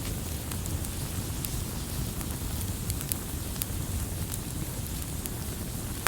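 Wood fire burning, with a steady low rumble and scattered sharp crackles and pops.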